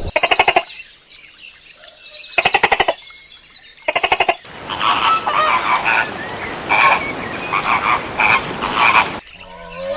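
Animal calls: three short trains of rapid pulsed croaks, then a longer noisy stretch of repeated calls from about halfway in.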